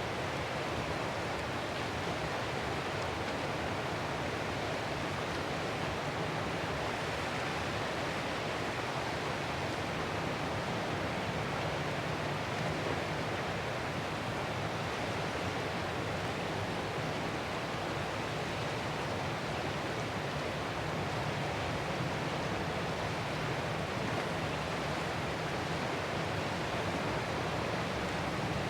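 Ocean surf heard as a steady, even rush of water noise, with no separate wave crashes rising or falling.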